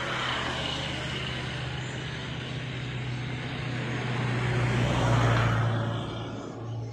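A motor vehicle passing by: a steady engine hum with road or air noise that grows louder to a peak about five seconds in, then fades away.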